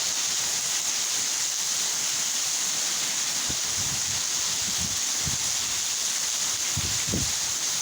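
Torrential rain pouring down in a steady, dense hiss, with gusts of wind buffeting the microphone in short low rumbles every second or so.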